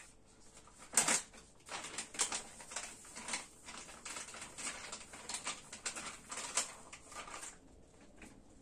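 A run of irregular light clicks, taps and rustles from handling things, starting sharply about a second in and dying away near the end.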